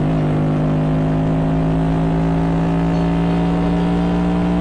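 Motorcycle engine pulling under way, its pitch climbing slowly and steadily as the revs rise.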